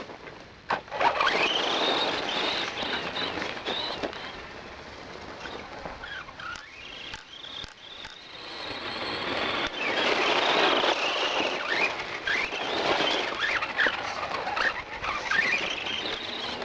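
Electric motor and drivetrain of a Losi 1/10-scale Desert Truck RC car on its stock setup whining as it is driven, the pitch rising and falling with the throttle. It is loud in two stretches, with a quieter lull in the middle.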